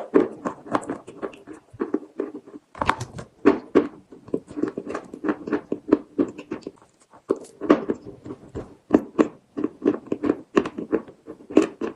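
Close-up crunching and chewing of chalk with paste: rapid, irregular crunches, with a brief pause about two and a half seconds in.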